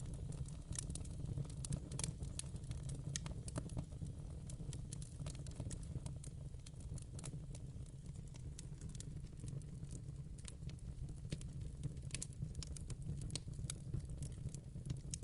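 Fire in a fireplace crackling: many irregular sharp snaps and pops over a steady low rumble.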